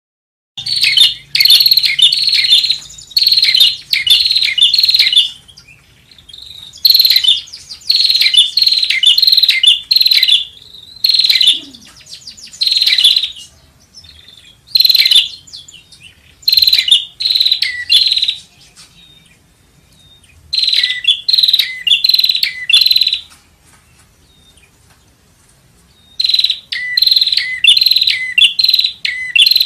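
Prenjak (prinia) calling: loud phrases of sharp, rapidly repeated chirping notes, several a second, each phrase lasting a few seconds with short pauses between.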